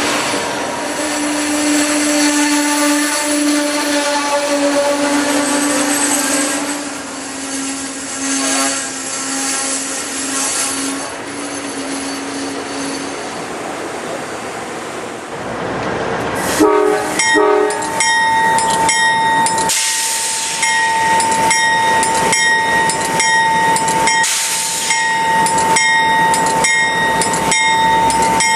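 Amtrak Superliner passenger cars rolling slowly past close by, wheels on rail with a steady squealing tone. After an abrupt change about halfway through, a train horn sounds two short blasts, followed by a steady high ringing tone with regular clicks about once a second.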